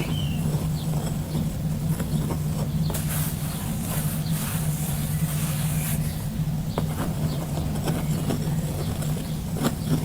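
A steady low hum with scattered faint ticks, and a short bird chirp right at the start.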